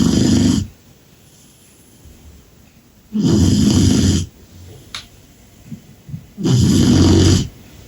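Cane Corso puppy snoring in its sleep: three loud snores about three seconds apart, each lasting about a second, with the first already under way.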